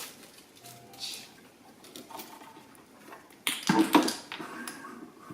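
Small plastic toy dollhouse pieces being handled and set in place: scattered light clicks and taps, with a louder clatter of knocks about three and a half seconds in.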